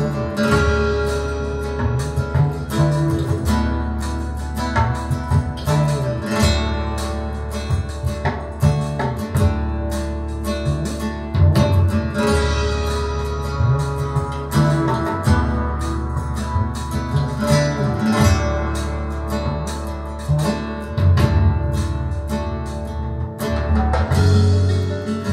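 Guitar-led recorded music with a deep, steady bass line, played back through Børresen X6 tower loudspeakers.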